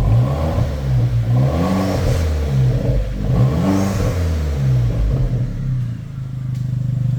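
Vauxhall Corsa VXR Nurburgring Edition's 1.6-litre turbocharged four-cylinder engine revved a few times, rising and falling back, then settling. The exhaust's centre section is disconnected, leaving it in theory a straight pipe.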